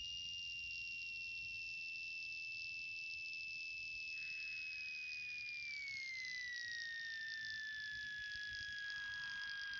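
Faint, steady high-pitched whine in the Cessna 182N's cockpit audio that slides down in pitch over a few seconds in the middle, then holds lower, over a soft hiss.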